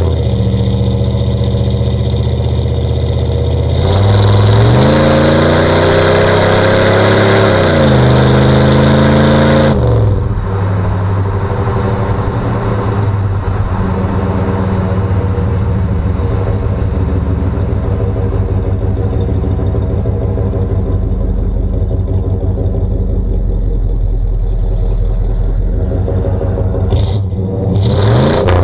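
1992 Chevy 3500 pickup's 5.7 L 350 V8 running through a cat-delete, high-flow exhaust under load. The engine climbs in pitch about four seconds in, shifts up once and climbs again, drops back about ten seconds in and cruises steadily, then starts to climb again near the end.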